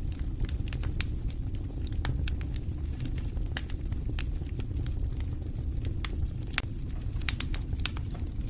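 Campfire crackling: irregular sharp pops and snaps, several close together around seven to eight seconds in, over a steady low rumble.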